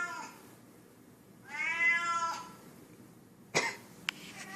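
A cat meowing twice, each call a drawn-out rise and fall, the second louder. A sharp knock follows near the end.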